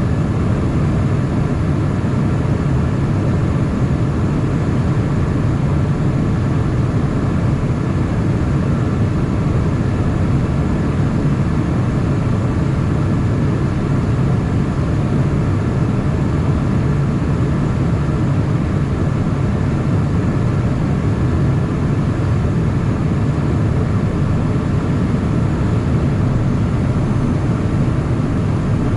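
Steady low rumble of a Cessna Citation Mustang's twin turbofan engines and airflow heard inside the cockpit, unchanging throughout.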